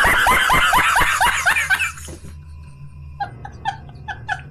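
A loud burst of rapid laughter, a quick run of ha-ha-ha notes each dropping in pitch, dying away after about two seconds. It is followed by a quieter run of short repeated chirping notes over a steady low hum.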